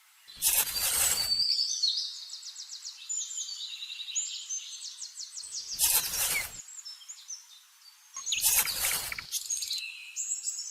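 Small birds chirping and trilling, with three short rushing bursts of noise, each about a second long, near the start, in the middle and near the end.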